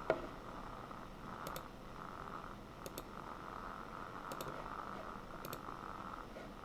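Computer mouse clicking: crisp double clicks of button press and release, about every second and a half, over a steady background hum. There is a soft thump at the very start.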